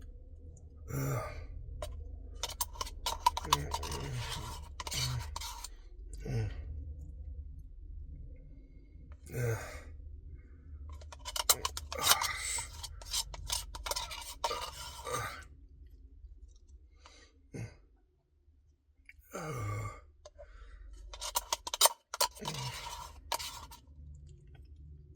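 A man's gasps and sighs, several short breathy vocal sounds falling in pitch, between stretches of clicking and scraping mouth and eating noises.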